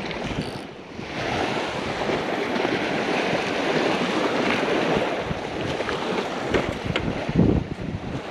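Ocean surf breaking and washing up the beach, swelling about a second in. Gusty wind rumbles on the microphone.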